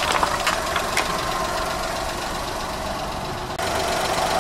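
Car engine idling steadily, with a couple of last sharp cracks from crushed plastic cups near the start and about a second in.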